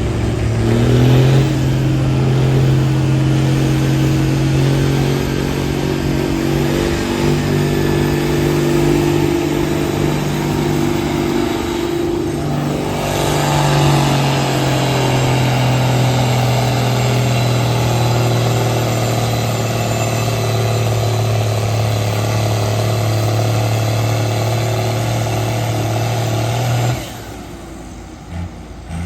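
Farm tractor engine running hard under load in a tractor pull, a loud steady drone. Its pitch rises about a second in and shifts a couple of times mid-way, and the sound stops suddenly near the end.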